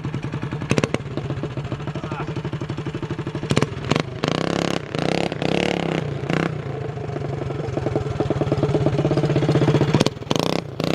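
Coleman CT200U minibike's single-cylinder engine running through a side-exit loop exhaust pipe, with a fast, even exhaust pulse. It is revved in several short bursts about four to six seconds in, and again near the end.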